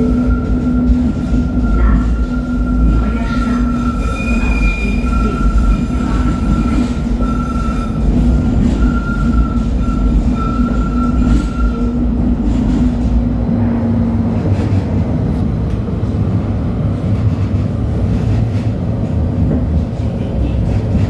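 LHB TW2000 Stadtbahn light-rail car running on track: steady whining tones over a constant rumble of wheels on rails, with scattered clicks. The whining fades out a little past halfway, leaving the rumble.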